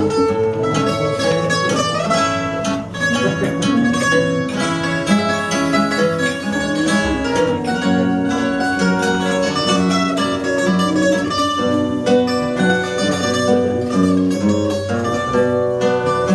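Fado instrumental interlude: a Portuguese guitar plays a bright, quick plucked melody over a viola de fado (classical guitar) accompaniment, with no singing.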